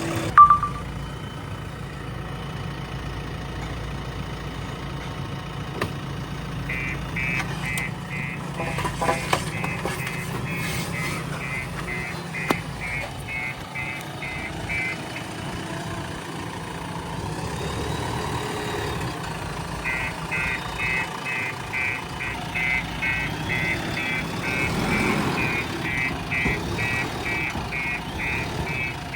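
Backhoe loader's diesel engine running steadily while its reversing alarm beeps, about two to three beeps a second, in two long runs. A sharp knock sounds just after the start.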